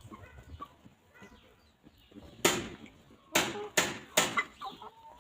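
Four loud, short noisy bursts in the second half, the first on its own and the other three in quick succession about half a second apart. They are followed by soft hen clucks near the end, in a free-range chicken flock.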